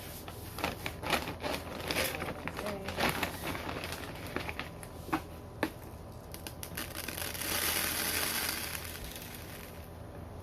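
A large bag of wild bird seed crinkling and rustling as it is handled, with dry seed poured into a small canister. A steady pouring rush runs for about two seconds near the end.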